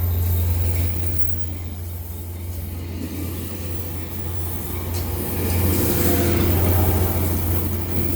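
Diesel-hauled commuter train led by an MPI F40PH-3C locomotive rolling into a station: a steady low diesel drone with rumbling noise, swelling louder about six seconds in.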